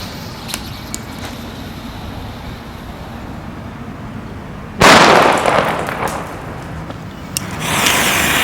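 A single loud, sharp bang of a Weco Donnerschlag (Super Böller 1) firecracker, 1.5 g of flash powder, about five seconds in, fading away over about a second. A rushing noise rises near the end.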